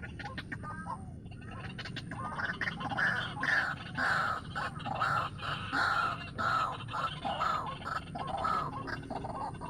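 White-breasted waterhen (ruak-ruak) calling: a harsh, croaking series of about a dozen notes, roughly two a second, starting a couple of seconds in.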